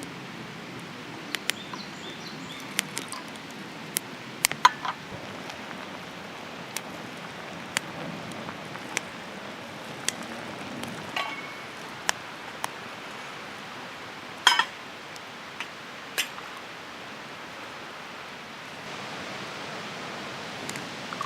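Scattered light clinks and taps, a dozen or so at uneven intervals, a few with a brief ringing tone, over a steady outdoor hiss.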